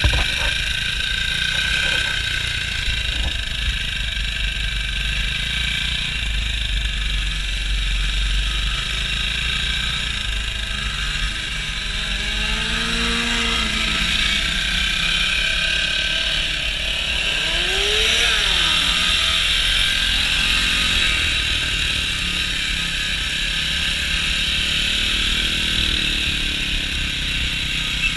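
Small mini bike engines running, with two revs that rise and fall in pitch, about halfway through and again a few seconds later, over a steady engine and wind noise.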